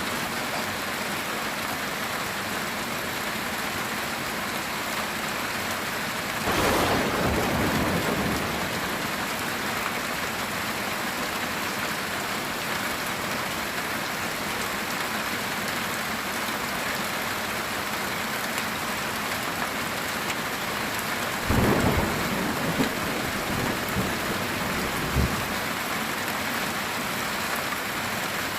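Heavy rain falling steadily on a metal tin roof, with rumbles of thunder about six seconds in and again near the end.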